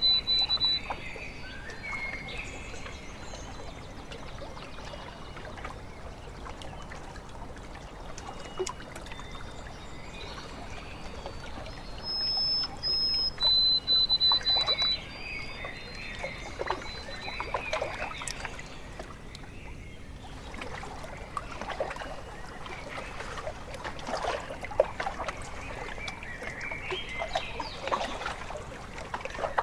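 Small waves lapping and trickling at a lake shore, a steady wash with little splashes throughout. A bird whistles a clear call twice, a high note dropping to a lower held note, at the very start and again about 12 seconds in.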